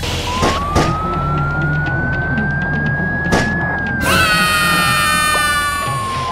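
A siren wailing in one slow rise and fall, with a couple of sharp knocks in the first second. About four seconds in, a brighter, buzzier tone with many overtones joins it over a steady low rumble.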